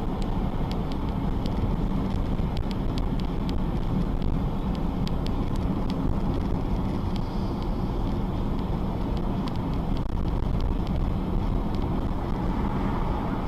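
Steady rumble of a moving vehicle's engine and road noise with some wind on the microphone, and faint scattered ticks over it.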